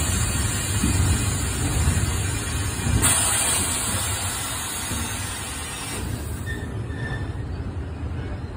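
Freight train of covered wagons rolling slowly past: a steady rumble of wheels on rail with a high hiss that drops away about six seconds in, and faint wheel squeals as the train slows to a stop.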